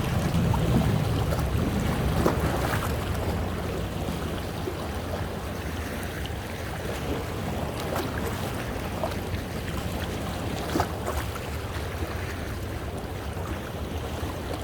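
Sea waves washing over coastal rocks, with water sloshing and small sharp splashes. The wash is louder over the first few seconds, then settles into a steadier surge.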